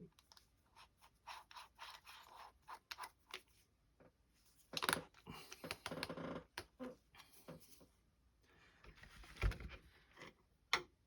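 Scattered small clicks of a tool being handled, then scraping strokes as a larger drill bit is worked slowly through a plastic model hull to widen the propeller-shaft hole.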